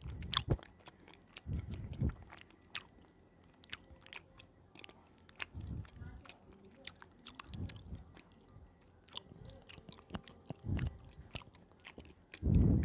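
Close-miked ASMR eating: a person chewing soft food, with low dull chews every couple of seconds and many sharp wet mouth clicks between them; the loudest chew comes near the end.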